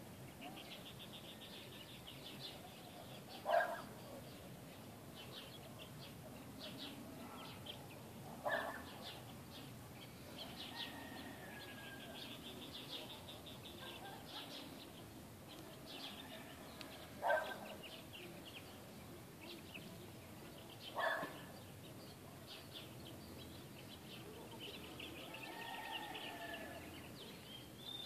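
Small birds chirping with rapid high trills that come and go. Four louder, lower short calls stand out, several seconds apart.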